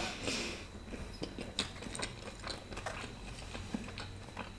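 Close-miked chewing of stuffed garlic bread: irregular small clicks and crackles from the mouth and the bread.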